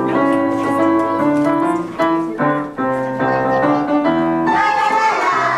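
A keyboard instrument playing a tune over held chords. Near the end, children's voices start singing with it.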